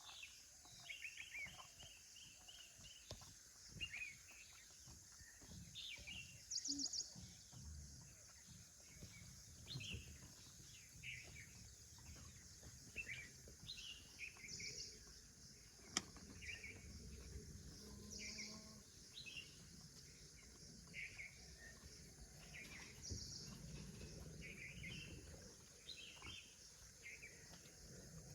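Faint outdoor ambience of small birds chirping, short calls repeating at irregular intervals over a steady high insect hiss.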